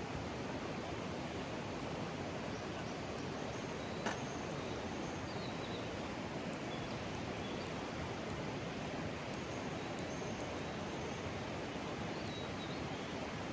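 Mountain stream water rushing steadily over rocks, with a single sharp click about four seconds in and a couple of faint high chirps.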